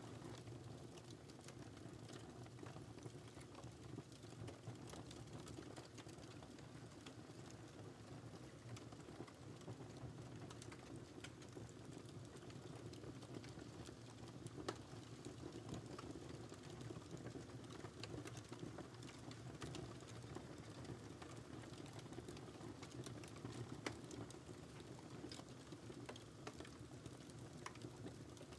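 Faint wood fire crackling in a fireplace: scattered small pops and snaps over a steady low rumble of the flames, with two slightly louder pops, about halfway through and again a little later.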